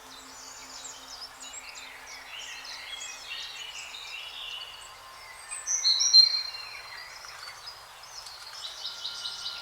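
Several songbirds chirping and trilling together over a faint hiss, with a louder run of high whistled notes about six seconds in.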